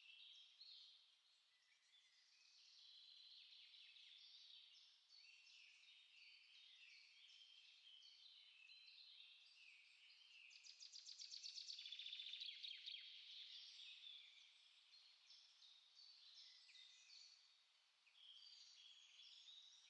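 Several small songbirds singing at once in a steady chorus of overlapping chirps and whistled phrases, with a fast, loud trill from about ten to thirteen seconds in.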